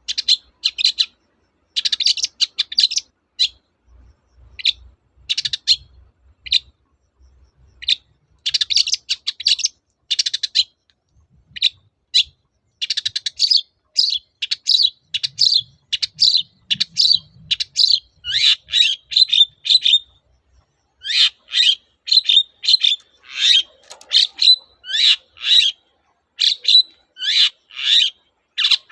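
Long-tailed shrike singing loudly: clusters of rapid chattering notes in the first half, then a steady run of short, sharp downward-sweeping notes, about two or three a second.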